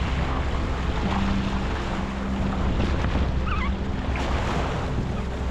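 Wind buffeting the microphone over choppy sea water, with waves splashing and lapping steadily.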